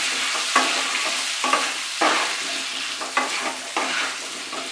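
Diced potato and raw papaya frying in hot mustard oil in a kadai, sizzling steadily, while a spatula stirs them with a scrape against the pan a little under twice a second.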